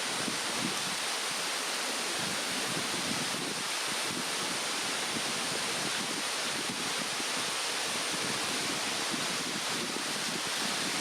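Steady rushing of a mountain stream, with a campfire burning softly underneath.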